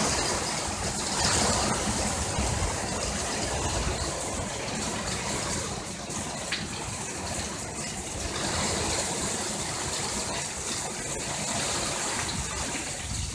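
Heavy rain pouring down steadily in a storm, with gusty wind in the trees and a shifting low rumble of wind.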